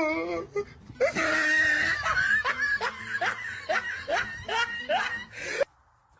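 A person laughing hard in a run of breathy, rising bursts, about two a second, cutting off abruptly near the end.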